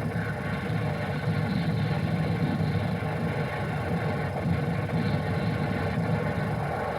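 A steady low engine rumble, fluctuating slightly but without distinct bangs or shots.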